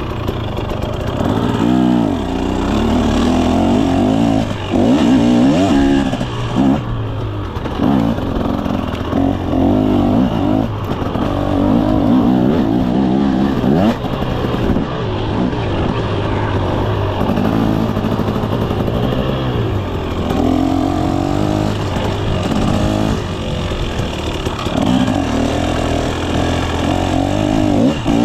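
KTM 300 SX two-stroke dirt bike engine being ridden, its pitch rising and falling again and again as the throttle is opened and shut.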